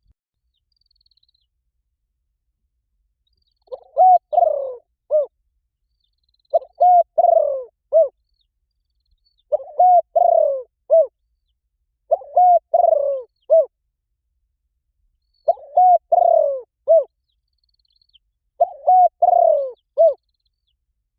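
Spotted dove giving its calling coo: after a few seconds of quiet, six phrases of several low coo notes each, about one every three seconds.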